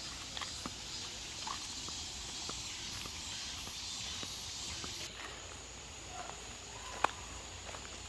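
Steady hiss of flowing stream water, with scattered light clicks and taps and one sharper tick near the end.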